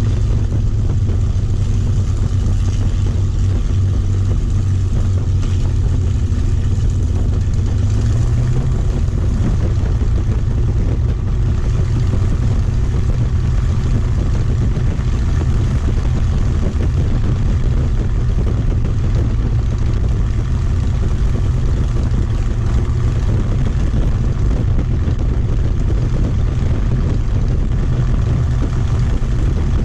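Merlin V12 piston aero engine of a Second World War fighter running steadily: a loud, deep, even drone whose pitch steps up slightly about eight seconds in.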